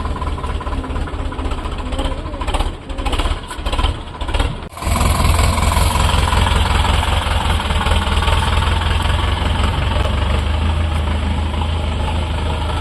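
Sonalika 750 tractor's diesel engine running with a steady low drone. It cuts out briefly a few times about three to five seconds in, then runs on steadily and louder.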